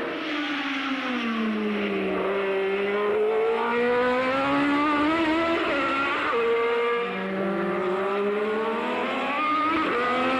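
1983 Formula One car engine at high revs, its pitch falling over the first two seconds, then climbing, holding briefly about six seconds in, climbing again and dropping near the end.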